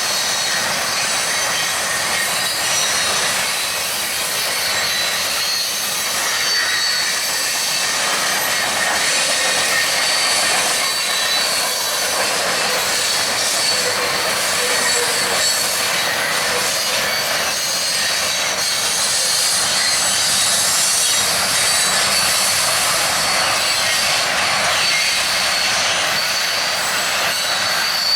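Freight train cars rolling past, with a steady high-pitched wheel squeal over the rumble.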